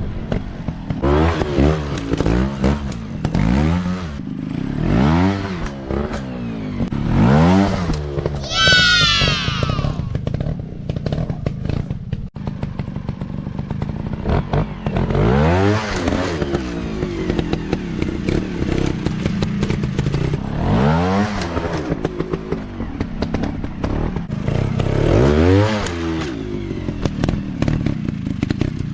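Dirt bike engines revving in repeated blips, each rev climbing and dropping back over a second or two, with clattering and thuds mixed in. A brief high-pitched whine falls away about nine seconds in.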